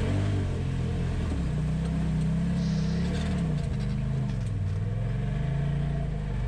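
Polaris RZR side-by-side engine running at trail speed, its pitch rising and falling as the throttle is worked.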